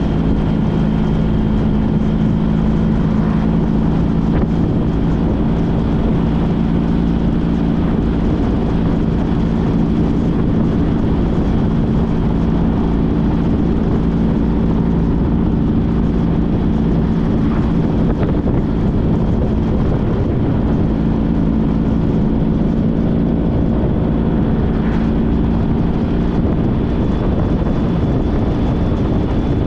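2014 Honda CTX1300's V4 engine running at a steady cruise while riding, its note holding a near-constant pitch.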